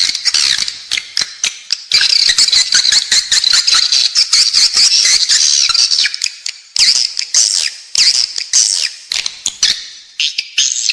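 Recorded chorus of edible-nest swiftlets twittering: a dense, continuous stream of high chirps and rapid clicks that starts suddenly out of silence. It is the lure call played inside swiftlet houses to draw the birds in to roost and nest.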